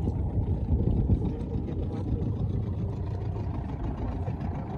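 Boat motor running steadily, a dense low rumble mixed with wind and water noise.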